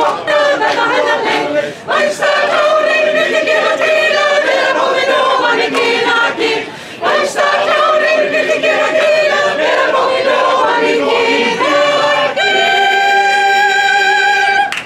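Swiss yodel choir singing a cappella in several voices, settling on one long held chord about two-thirds of the way through to the end.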